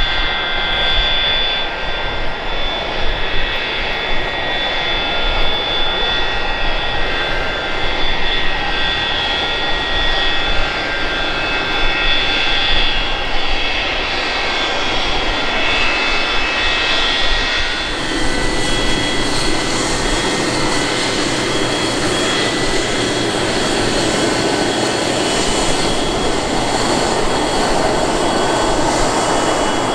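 Aircraft engines running, a steady high whine over a rushing noise. About eighteen seconds in, the sound changes abruptly to a fuller, wider rush.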